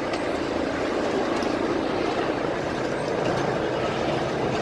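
Park railroad train running, heard from aboard: a steady rumble of the moving train.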